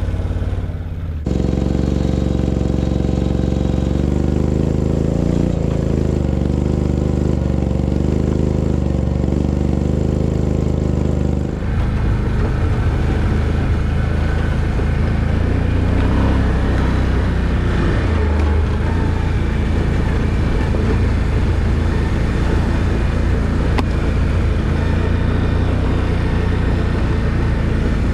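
Off-road vehicle engine running at a steady note. About 11 seconds in it changes to a rougher rumble under load as the vehicle drives the trail.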